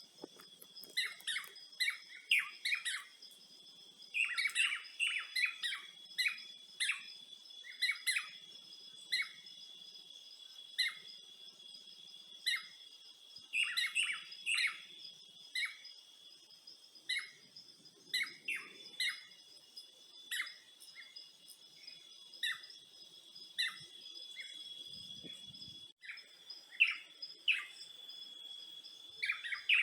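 Wild birds chirping in many short, repeated calls, over a steady high-pitched drone.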